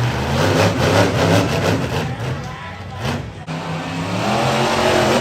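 Monster truck engine revving hard, its pitch rising and falling repeatedly, dropping off briefly about three and a half seconds in before climbing again.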